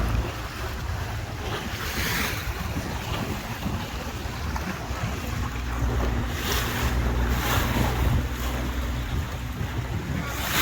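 Tour boat's engine running with a steady low drone, water splashing along the hull in surges, and wind buffeting the microphone.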